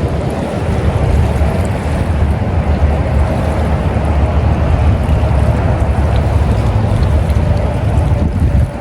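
Wind buffeting the microphone outdoors by open water: a loud, fluctuating low rumble that eases off shortly before the end.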